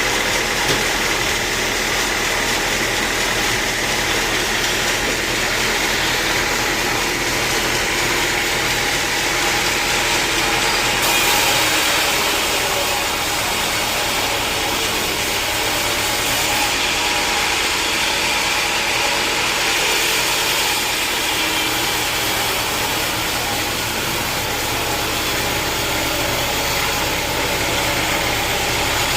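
Sawmill machinery running steadily, an engine-driven saw going, with a brighter hiss from about 11 to 20 seconds in.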